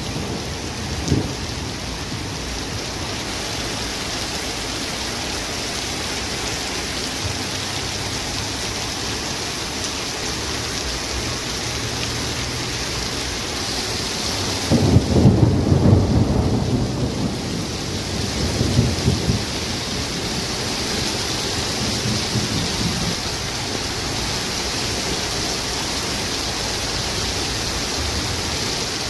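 Heavy downpour of rain hissing steadily on paving and a flooded street. Louder low rumbles swell up about halfway through and again a few seconds later.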